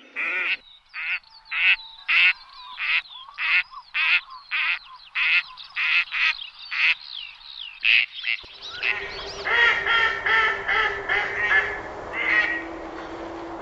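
Ducks quacking: a quick, regular series of short quacks, about two a second, then about eight seconds in a sudden change to several ducks quacking over one another against a low background noise.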